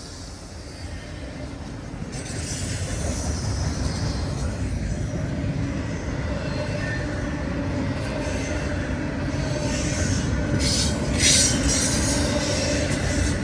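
Norfolk Southern freight train passing, growing steadily louder, with a brief high wheel screech about eleven seconds in.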